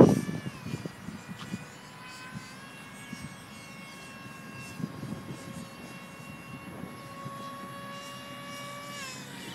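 Electric ducted fan of an RC model jet whining steadily, its pitch dropping just after the start, stepping up about two seconds in and easing higher, then dropping again near the end as the throttle changes.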